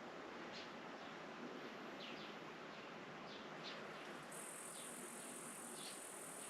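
Faint farmland ambience of birds chirping, with short calls every second or so. An insect's high, steady buzz starts about two-thirds of the way through.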